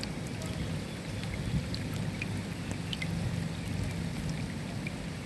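Rain falling, with individual drops heard as scattered sharp ticks over a steady low rumble.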